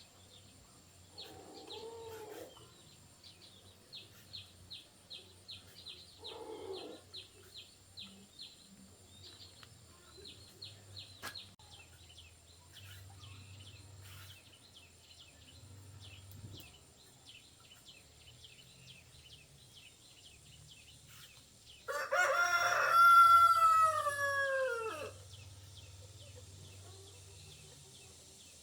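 A rooster crows once, loud, about three seconds long and falling in pitch at its end, about three quarters of the way through. Before it come two short, lower animal calls and a run of faint high chirps, about three a second.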